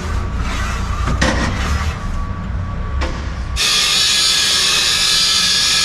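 A low rumble, then about three and a half seconds in an angle grinder starts cutting the bent steel door shaft, a loud, steady, high grind.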